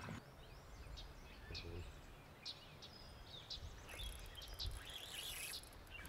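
Faint outdoor ambience: a low steady background noise with scattered short bird chirps, and from about four seconds in a thin high note.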